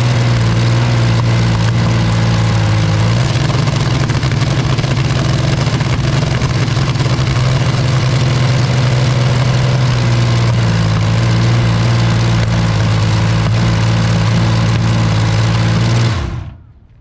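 Rolls-Royce Meteor V12 engine running loud and steady, then shut down about sixteen seconds in, its sound dying away quickly. Makes you deaf.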